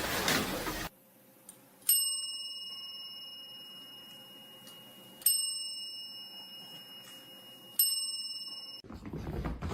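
A small bell struck three times, a few seconds apart, each strike ringing on with a high tone that slowly fades.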